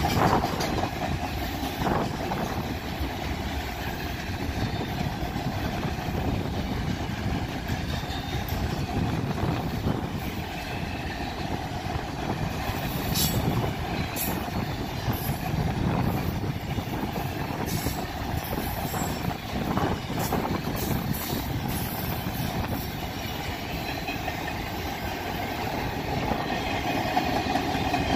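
Freight cars of a BNSF manifest train, autoracks and boxcars, rolling steadily past with a continuous rumble and clatter of wheels on rail, and an occasional knock. A few brief high squeals come about halfway through.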